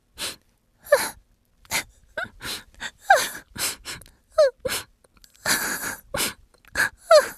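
A person's voice letting out short gasps and yelps over and over, about two a second, many of them dropping sharply in pitch: cries of pain from someone being skinned alive, as acted in a skit.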